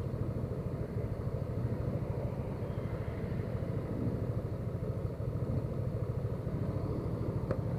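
Motorcycle engine idling steadily with a fast, even beat. A faint click near the end.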